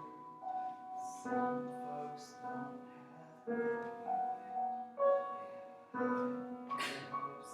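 Piano music: slow, sustained chords that change every second or two.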